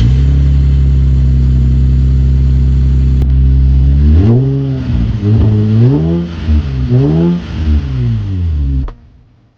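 Infiniti Q50's VR30 twin-turbo V6 through a custom 2.5-inch exhaust with resonator, X-pipe and SLP mufflers, idling steadily for about four seconds, then revved three times, each rev rising and falling. The sound cuts off suddenly near the end.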